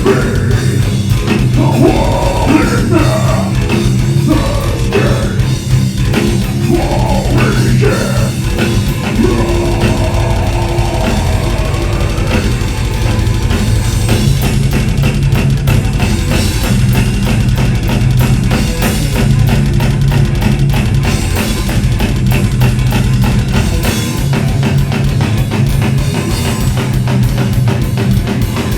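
Heavy metal band playing live, loud, with drum kit and distorted guitars. Bending high notes ride over the riff in the first twelve seconds or so.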